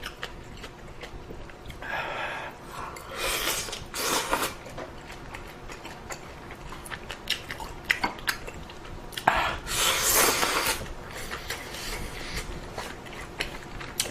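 A person eating ramen: utensils clicking against the bowl and chewing, with several longer hissing noises about two to four seconds in and again around ten seconds in.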